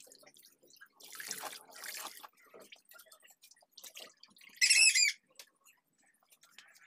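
A bird gives one short, loud squawk a little past the middle. Earlier, about a second in, water splashes for about a second.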